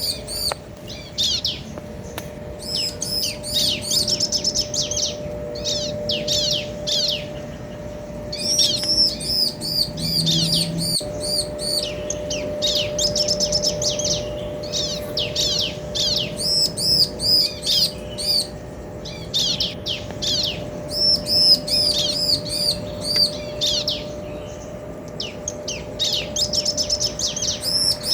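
Bar-winged prinias chattering: fast runs of high, sharp chirps in bouts with short pauses between them, a male and a female answering each other.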